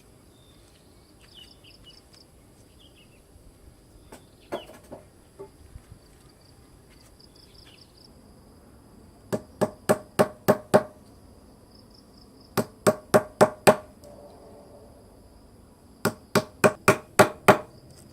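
Three bursts of about six quick, sharp blows each: a hand tool hammering or chopping, with a few lighter knocks earlier on.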